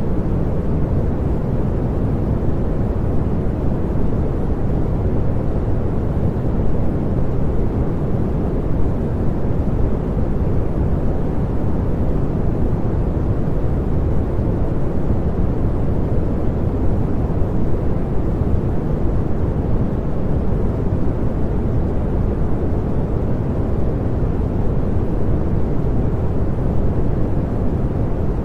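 Steady synthetic pink noise: an even, unbroken rushing sound, heaviest in the low end and thinning toward the highs.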